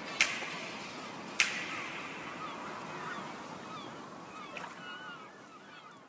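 Two sharp cracks about a second apart, then faint, short chirping bird calls over a soft hiss, all fading out.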